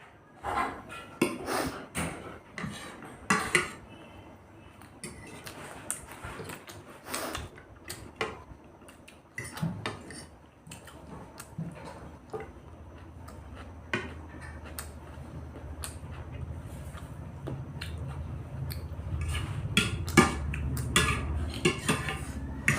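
Cutlery clinking and scraping against plates and bowls during a meal: many sharp clicks, densest in the first few seconds. A low rumble builds in the second half.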